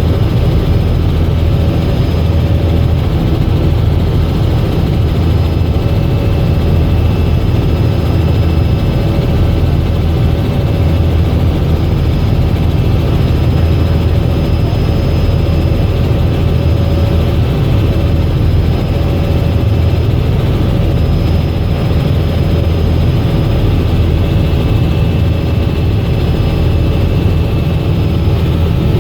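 Robinson R66 helicopter in flight, its Rolls-Royce RR300 turboshaft and rotors making a loud, steady drone. Faint high turbine whine tones come and go above it.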